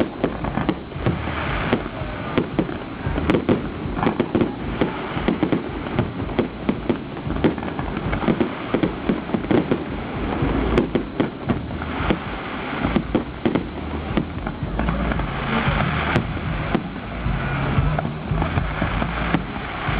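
Aerial fireworks going off in a dense, rapid string of sharp bangs and pops, many a second, with no let-up.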